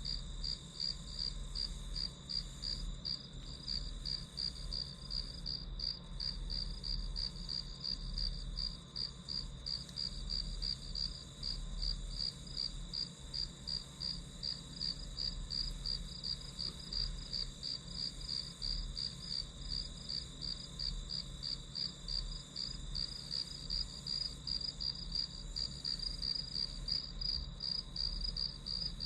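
Crickets chirping in a steady, even rhythm of a few high chirps a second, over a faint low hum.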